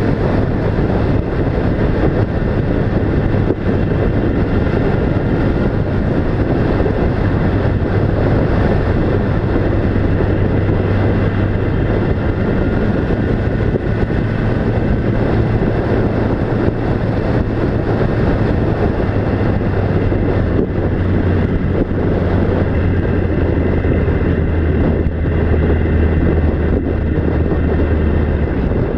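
A vehicle engine droning steadily under a dense rush of road and wind noise, the low hum dropping slightly in pitch about two-thirds of the way through.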